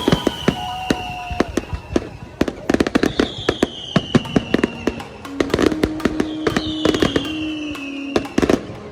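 Fireworks going off in quick succession: many sharp bangs and crackles, with whistling fireworks whose whistles fall in pitch over a second or two, three times.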